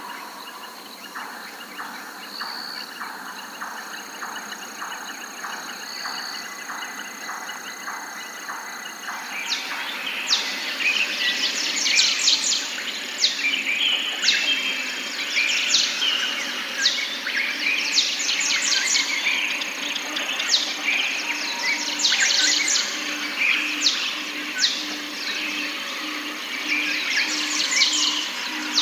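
Forest birds calling and singing together. It starts quieter, with an evenly repeated ticking call and a few thin high whistles. From about ten seconds in, a dense chorus of quick, high chirps and trills from several birds takes over, and near the end a low note pulses steadily under it.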